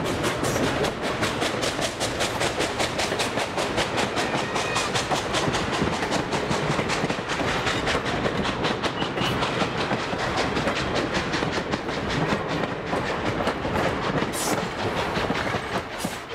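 Passenger train behind a steam locomotive rolling past close by: the coaches' wheels clatter over the rails in a fast, even clickety-clack, fading in the last second or two as the train moves off.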